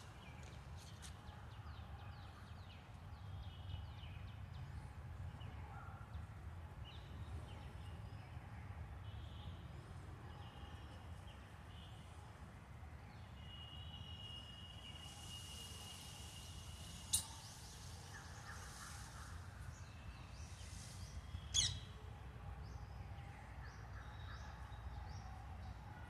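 Outdoor ambience with a low steady rumble and faint chirping of birds scattered throughout. Two sharp clicks stand out, about 17 seconds in and again about four seconds later.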